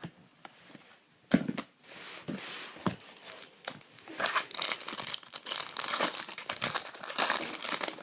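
Foil trading-card pack wrapper handled with a few sharp crackles, then torn open and crinkled densely from about halfway through.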